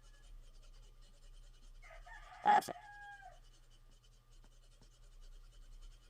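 A rooster crowing once in the background, about two seconds in, its call falling in pitch at the end, over a low steady hum.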